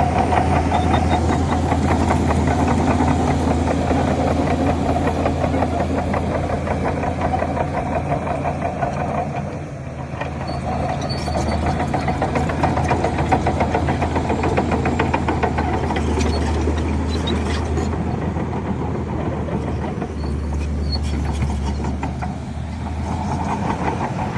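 Diesel engine of heavy earthmoving machinery running with a steady low drone and a fast rattle, easing off briefly about ten seconds in and again near the end.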